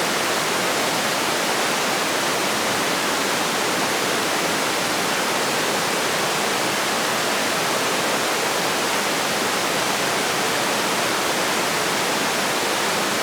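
A steady, even rushing noise with no separate events, spread evenly from low to very high pitch.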